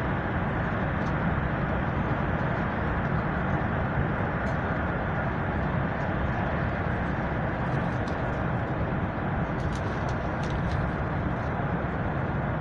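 Steady rumble and rush of a passenger train running along the track, heard from inside the carriage, with a few faint ticks now and then.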